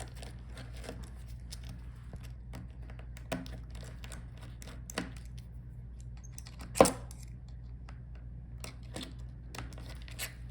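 Small clicks and taps of metal laptop hinge parts and tools being handled while the hinges are removed from a laptop's display assembly, with one sharp click about seven seconds in, over a steady low hum.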